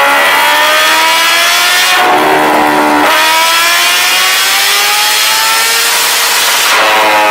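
Kawasaki inline-four sportbike engine accelerating hard through the gears, loud. Its pitch climbs and falls back at each upshift, twice in the first three seconds, then makes one long climb through the next gear before another shift near the end.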